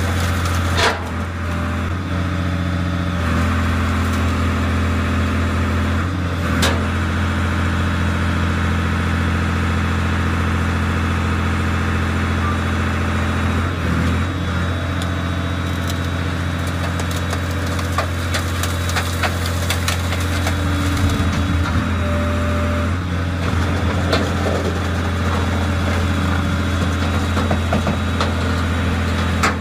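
Mobile car crusher's engine and hydraulics running steadily, its tone shifting a few times as the crushing lid is raised and lowered. Sharp cracks come about a second in and again about six seconds in.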